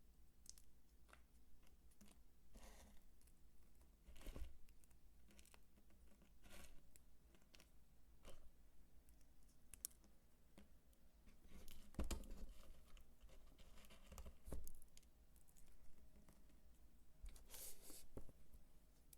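Dry soap being crunched and crumbled by hand: scattered crisp crackles and crunches, a few louder than the rest, over a faint low hum.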